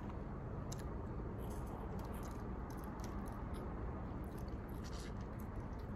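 Close-up chewing and biting of chicken feet and corn: scattered short, wet mouth clicks and smacks over a steady low background noise.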